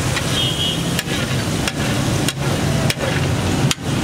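Liver pieces sizzling in spiced oil on a large flat tawa, with a metal spatula clicking and scraping against the pan every second or so. A steady low hum runs underneath.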